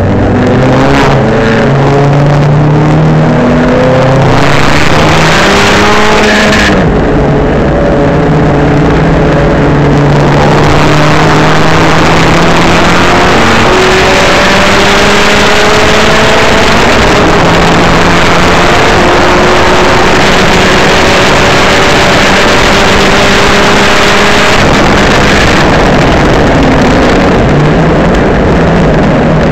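Tuned Saab 9-3 Sport's turbocharged B207 four-cylinder engine pulling hard through the gears on track. Several quick upshifts come in the first few seconds, then a long, slow climb in revs. The revs drop about 25 seconds in and climb again near the end, all over a loud rushing noise.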